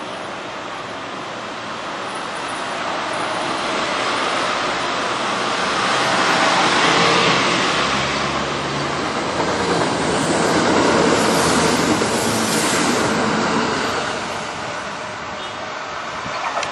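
Kintetsu limited express electric train running along a station platform: the noise of the train and its wheels on the rails swells as it approaches, stays loud as the cars go by, then eases off.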